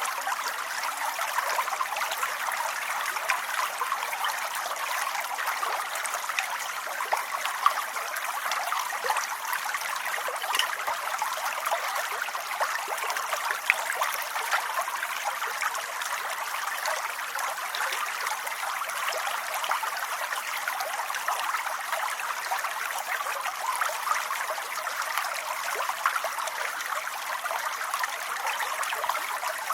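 Steady rain falling, an even hiss thick with fine patters of drops.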